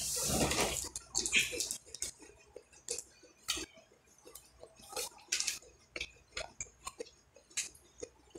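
Close-miked eating of fried chicken and fried rice: irregular wet clicks and smacks of chewing, with a short noisy burst in the first second.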